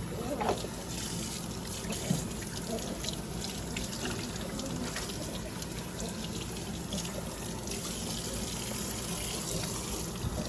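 Tap water running steadily into a sink as a puppy is rinsed under it, with faint splashes.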